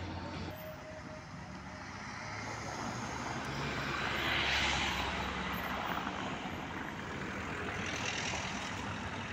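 Road vehicle noise: a vehicle passes, its sound swelling to a peak about four to five seconds in and fading, with a smaller swell near the end, over a steady low engine hum.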